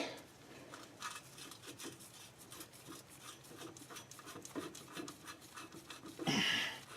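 Faint scattered clicks and rubbing of parts and tools being handled, with one louder, brief noisy sound about six seconds in.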